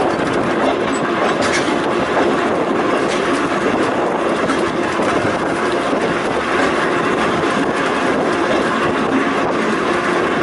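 A Volk's Electric Railway car running along its narrow-gauge track: a steady rumble of wheels on rails, with a clickety-clack of rail joints.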